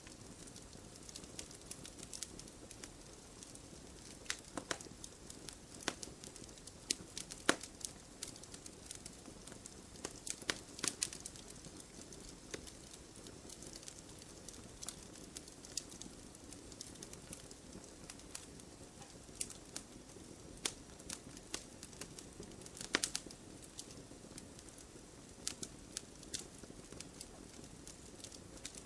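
Wood fire crackling: irregular sharp pops and snaps, a few louder ones scattered through, over a steady low hiss of burning.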